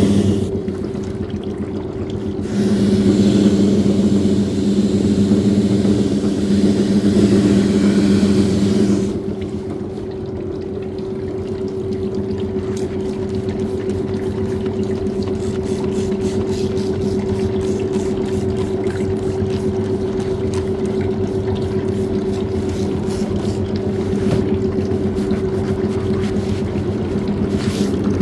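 Washing machine running with a steady motor hum. Water rushes in for the first several seconds, then stops, and the drum keeps turning with regular light clicks.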